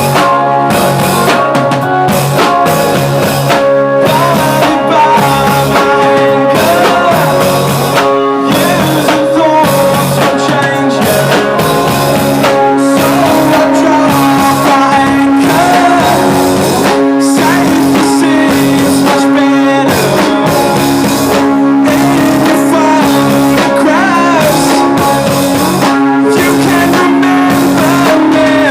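Rock band playing live, loud and continuous, with a drum kit and electric guitar.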